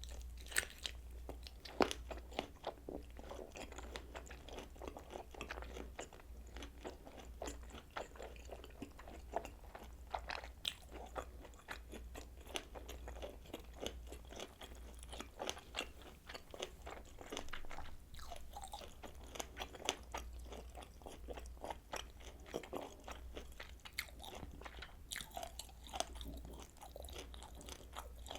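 Close-miked chewing and biting of kielbasa sausage: wet, irregular mouth clicks and small crunching snaps as the sausage is bitten and chewed. A steady low hum runs underneath.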